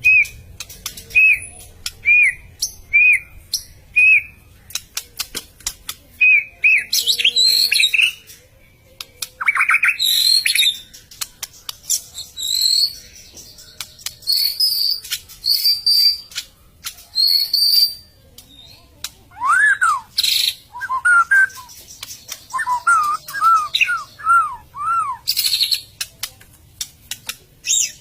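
White-rumped shama (murai batu) singing a loud, varied song: runs of short clear whistled notes repeated in quick series, broken up by harsh rasping notes and clicks.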